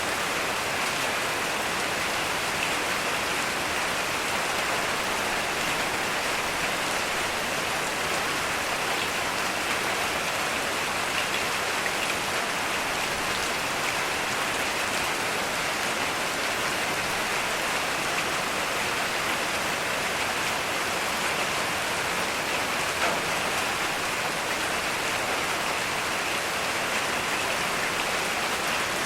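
Heavy rain falling steadily, a dense even hiss of raindrops with no thunder.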